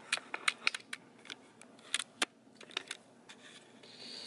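Light, irregular clicks and taps from a camera or phone being handled and repositioned, about a dozen in all, the sharpest a little after two seconds in. A faint steady hiss begins near the end.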